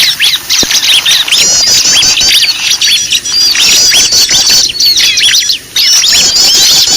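A loud, dense chorus of many small birds chirping and calling at once, short rapid notes overlapping without pause: a mixed bird-lure recording.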